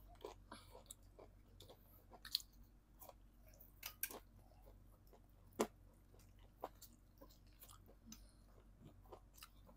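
Faint chewing of French fries and fried chicken close to clip-on microphones, with scattered small clicks, the sharpest about two and a half, four and five and a half seconds in.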